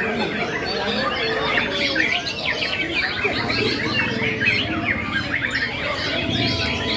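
A dense chorus of many caged songbirds, white-rumped shamas among them, singing and chirping over one another with rapid rising and falling notes, and people talking underneath.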